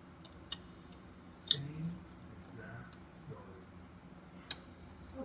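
A few sharp clicks at uneven intervals, at about half a second, a second and a half, three seconds and four and a half seconds in, over a faint low background murmur.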